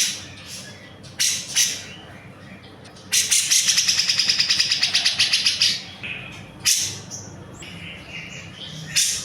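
Cucak jenggot (grey-cheeked bulbul) calling: short sharp calls, then a fast rattling trill of about eleven notes a second lasting some two and a half seconds, then more single sharp calls.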